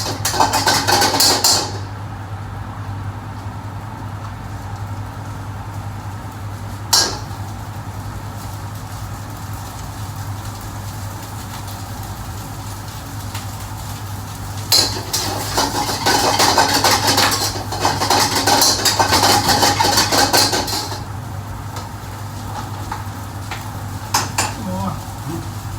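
Commercial kitchen work: metal pans and utensils clattering and scraping in two long spells, with a few sharp knocks, over a steady low hum.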